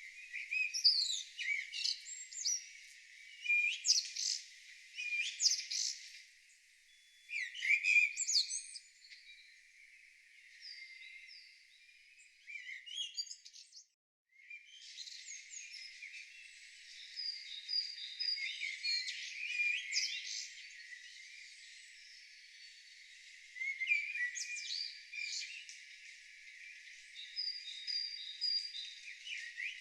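Songbirds singing in repeated bursts of whistles and trills, thin and high with no low sound under them. The song drops out completely for a moment about halfway through, then resumes.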